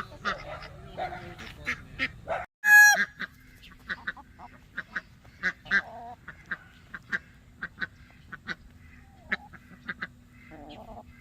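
Geese honking, a run of short repeated honks with one much louder, drawn-out honk about a quarter of the way in.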